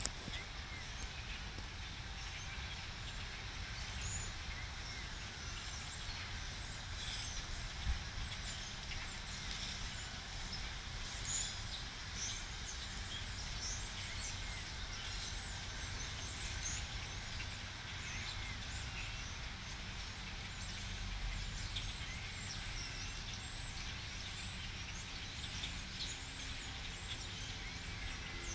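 A large flock of birds calling all at once: a dense, unbroken chatter of many short, high chirps, over a low rumble.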